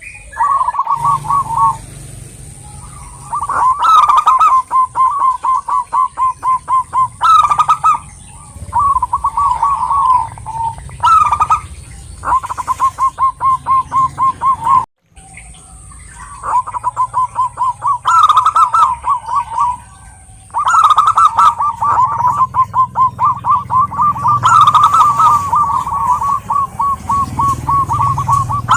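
Zebra doves (perkutut) singing: repeated runs of rapid staccato cooing notes. There is a brief break about fifteen seconds in, and a faint steady high tone in the background through the first two-thirds.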